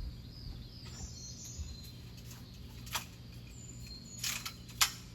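Birds chirping faintly in the background, with a few sharp clicks: one about three seconds in, a short cluster a second later, and the loudest single click near the end.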